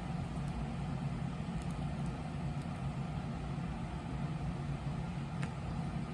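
Steady low mechanical hum, with a faint click about five seconds in.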